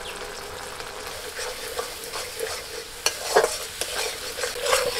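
Mustard paste with turmeric sizzling in hot oil in an aluminium kadai. From about three seconds in, a metal spatula scrapes and stirs it against the pan in short, sharp strokes.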